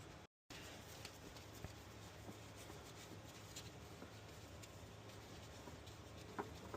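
Near silence: a faint steady low hum with a few light scattered ticks and clicks, broken by a brief dead gap about a third of a second in.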